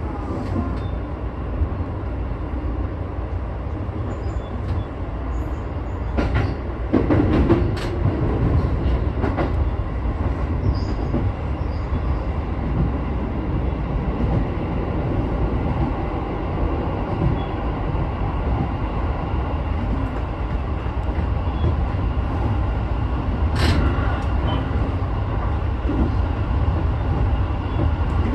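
Sotetsu 12000 series electric train running steadily, heard from inside the leading car: a continuous low rumble of wheels on rail, with a few sharp clicks about six to eight seconds in and one more near the end.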